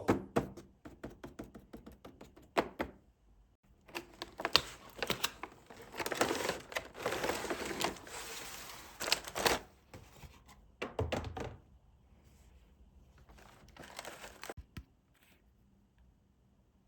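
Close handling noise of small objects: a quick run of clicks and taps, then stretches of rustling and scraping, with a dull thump about eleven seconds in. It fades to near silence near the end.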